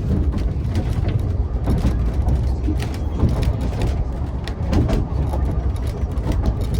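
Narrow-gauge railway carriage running, heard from inside: a steady low rumble with frequent irregular rattles and clicks from the wheels and the carriage fittings.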